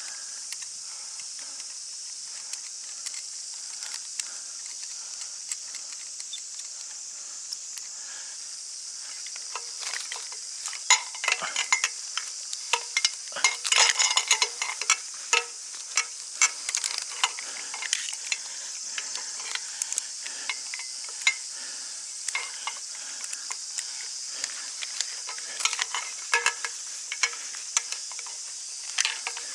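A steady, high insect drone with irregular clicks, rattles and rustles of handling, thickest in a busy stretch in the middle.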